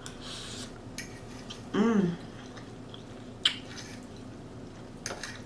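Eating sounds close to the microphone: quiet chewing, a sharp click of cutlery on a plate about three and a half seconds in, and a short hummed 'mm' of enjoyment about two seconds in.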